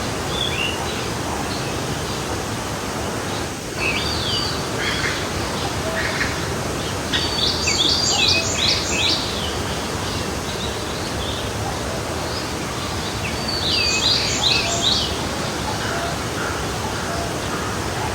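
Steady rush of a forest stream with birds singing over it; quick, tumbling song phrases come in bursts, loudest about eight and fourteen seconds in, with quieter calls between.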